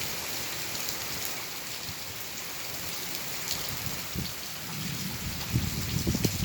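Heavy rain falling steadily in a continuous hiss, with low rumbles swelling in the second half.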